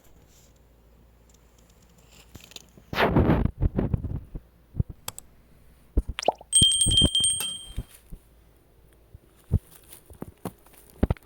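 Scattered knocks and scrapes, with a short rustling burst about three seconds in and a bright ringing ding lasting about a second past the middle.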